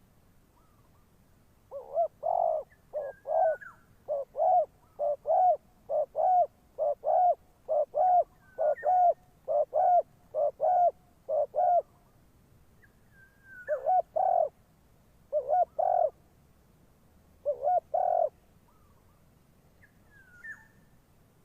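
Spotted dove cooing: a long run of short, low coos at about one and a half to two notes a second, then, after a pause, a few more coos in small groups. Faint, higher chirps from another bird come in between.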